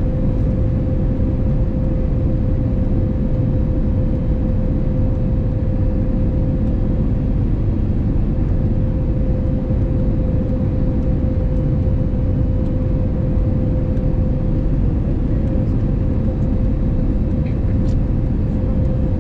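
Steady cabin noise inside an Airbus A320neo with CFM LEAP-1A engines: a constant low rumble of engines and airflow, with a steady hum held through it.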